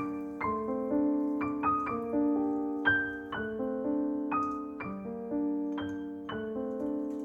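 Background piano music: a slow, gentle melody of single notes and chords, a new note struck about every half second and left to ring.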